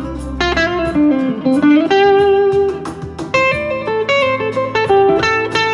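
Single-coil electric guitar on the neck pickup (a Squier Jaguar) playing a lead line of separate single notes through a JHS NotaKlon overdrive into a Vox AC10 amp. The pedal is on with its gain set low, so the tone is fairly clean. A backing track with a steady drum beat and bass plays underneath.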